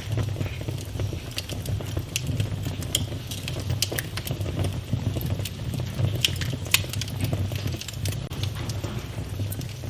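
Wood fire burning in a fireplace, crackling with irregular sharp snaps and pops over a low steady rumble of flames.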